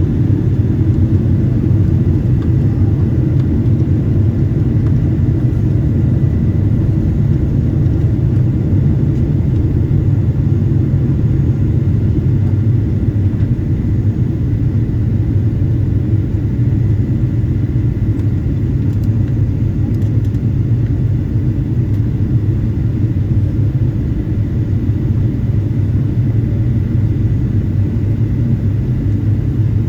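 Steady in-flight cabin rumble of a Boeing 777-200 airliner: engine and airflow noise heard from a passenger seat, with a faint steady high tone above it.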